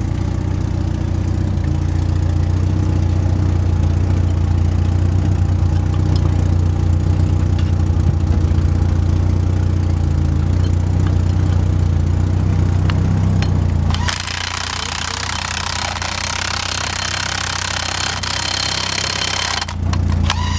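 A car engine idling steadily. About fourteen seconds in it cuts abruptly to a steady high hiss with little low end, and the low hum comes back just at the end.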